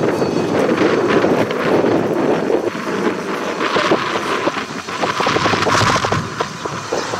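Wind buffeting the microphone, a loud steady rumbling noise that turns hissier and crackly about halfway through.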